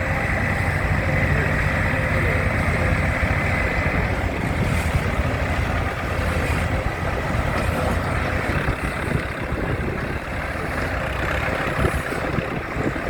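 Diesel engine of a Ford County timber winch tractor running steadily at a low rumble.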